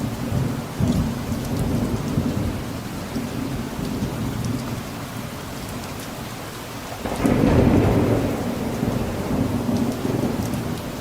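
Steady rain falling, with distant thunder rumbling low beneath it; a louder roll of thunder swells up about seven seconds in.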